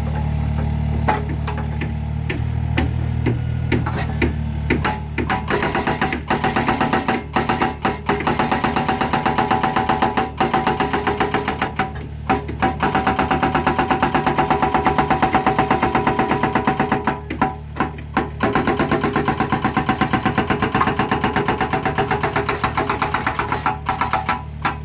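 Mini excavator's engine running, then from about five seconds in its hydraulic breaker hammering concrete in a fast run of blows, broken by a few short pauses.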